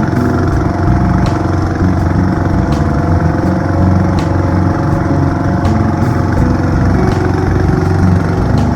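Boat engine running steadily and loud, with a faint tick repeating about every second and a half.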